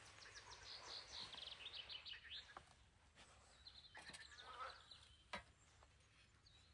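Faint birdsong: quick, high-pitched trills in the first half and again later, with a few light clicks, the sharpest a little past the middle.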